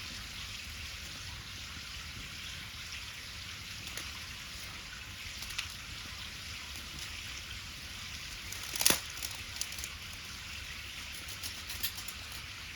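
Wood bonfire crackling: a steady hiss with scattered sharp pops, the loudest about nine seconds in.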